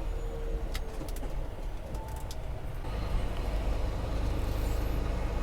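Low, steady rumble of strong wind buffeting the microphone over an idling semi-truck, with a few faint clicks.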